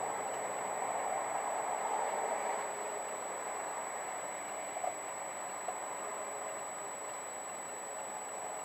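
Steady running noise of a moving vehicle, heard from a dashboard camera, with a couple of faint ticks about five seconds in.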